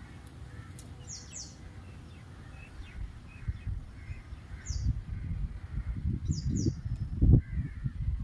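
Outdoor birds calling: short high chirps, often in quick pairs, with fainter lower calls between them. From about three seconds in, a low rumbling buffeting on the microphone grows louder, with one strong bump near the end.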